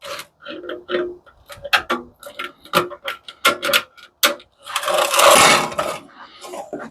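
Metal parts and hand tools clicking and knocking in quick, irregular taps while screws are worked loose from a commercial coffee machine's casing. A longer scraping rasp follows about five seconds in.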